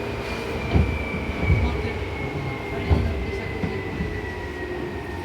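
Seibu New 2000 series electric train slowing into a station, heard from inside the car. A single whine glides slowly downward as the train decelerates over the running rumble, and a few heavy thuds come from the wheels passing over rail joints or points.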